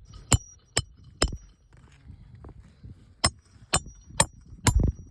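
Hammer driving roofing nails into a shingle: three sharp blows in quick succession, a pause of about two seconds, then another run of blows. Some blows leave a short metallic ring.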